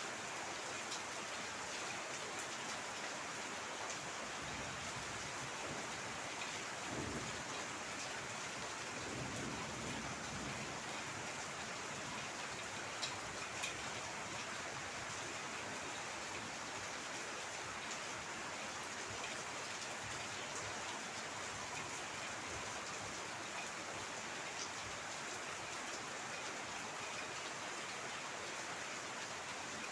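Heavy rain falling steadily. A low rumble comes through about seven to eleven seconds in, and a few sharp drop ticks fall a little after.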